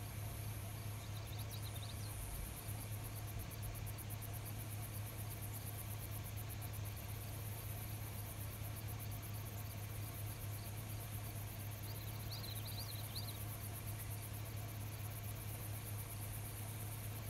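Night insects chirring in a fast, steady high pulse over a steady low hum, with two brief faint chirps, one about a second and a half in and one about twelve seconds in.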